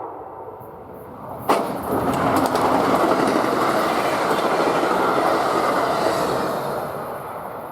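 Train passing at speed through a grade crossing, its wheels running loudly on the rails. A sudden sharp crack comes about a second and a half in as the front of the train arrives, and the rail noise eases off near the end.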